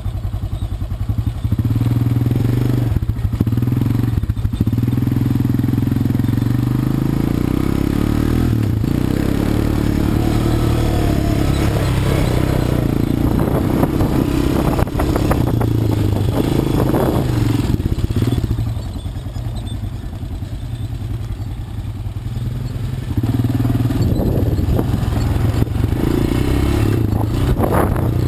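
Quad bike engine running steadily, with a quieter stretch of a few seconds past the middle. Occasional knocks and clatter come through.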